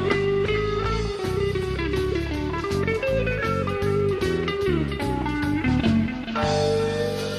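A live country rock band plays an instrumental passage led by guitar after the last sung line. A run of notes falls at about four and a half seconds in, and the band then holds a chord.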